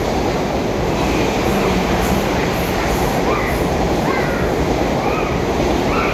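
A freight train hauled by Class 66 diesel locomotive 66088 passing at speed: a steady loud rumble of wheels on rails.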